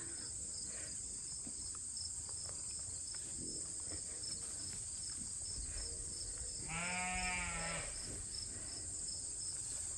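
A sheep bleats once, a single call of about a second, roughly seven seconds in, over a steady high chirring of insects.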